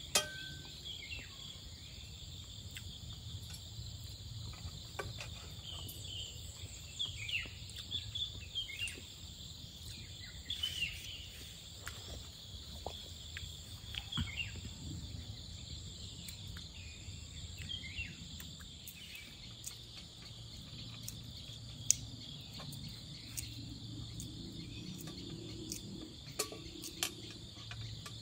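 Steady high-pitched chorus of forest insects such as crickets, with scattered light clicks and knocks of a folding ultralight camp table being assembled.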